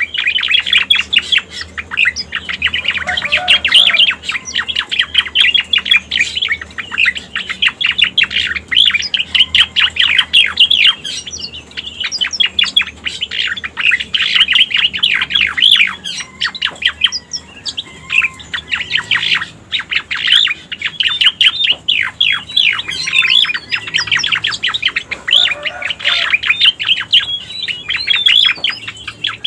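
Cica koreng (cucak koreng) bird calls played as a lure recording: a fast, continuous chatter of short chirps with a few brief lulls.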